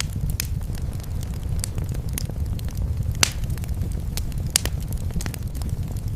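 Wood fire crackling in a fireplace: irregular sharp pops and snaps over a steady low rumble, with louder pops about three seconds in and again about a second and a half later.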